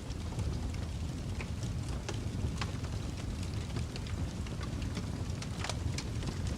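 Wood fire burning: a steady low rumble of flames with scattered sharp crackles and pops, one louder pop just before the end.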